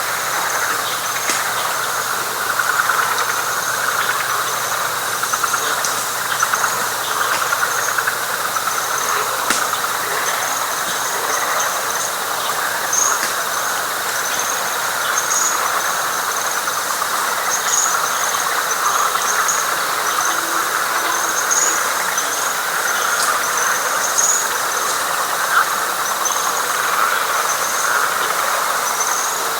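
Dense night chorus of frogs calling together, a continuous pulsing mass of calls, with a higher line of repeated short chirps above it.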